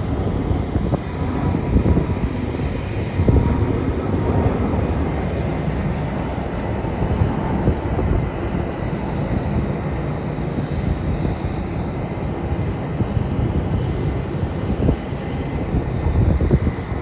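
Wind buffeting the microphone over the steady rumble of distant jet airliner engines, with a faint high whine held underneath.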